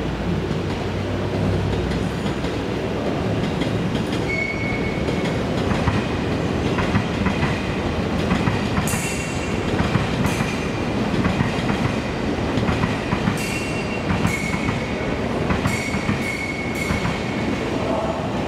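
TEMU2000 Puyuma tilting electric multiple unit running past, a steady rumble of wheels on rail with clicks over the joints. Short high-pitched squeals come and go in the second half.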